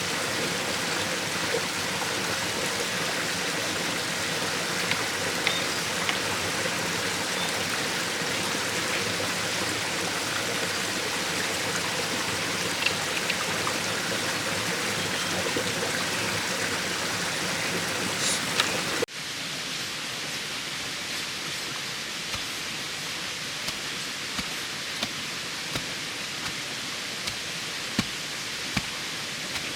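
Steady rushing water noise, dropping abruptly to a quieter level about two-thirds of the way through. After the drop, light knocks come roughly once a second.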